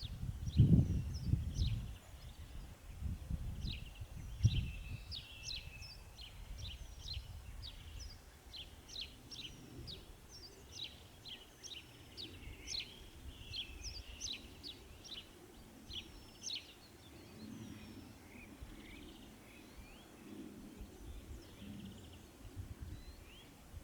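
Small songbirds chirping and twittering in quick, short high notes, dense at first and thinning out after about seventeen seconds. Irregular low rumbling thumps are loudest in the first few seconds.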